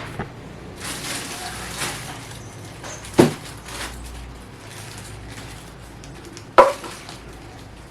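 Rustling and scraping noises with two sharp knocks, about three seconds in and about six and a half seconds in.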